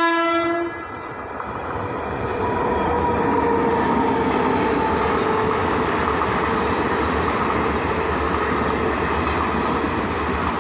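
A locomotive's horn stops less than a second in, then a passenger train passes close by, a steady loud rush and rumble of wheels on the track as the coaches go past.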